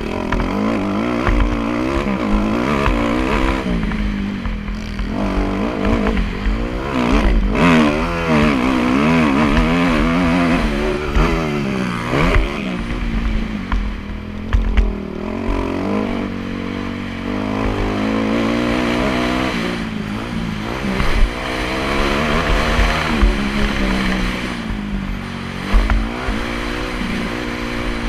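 Motocross bike engine revving up and down as it is ridden, its pitch rising and falling again and again with the throttle.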